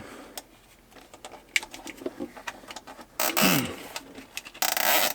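Plastic zip tie ratcheting as it is pulled tight, two short rasping zips about three and a half and five seconds in, among small clicks and taps of handling.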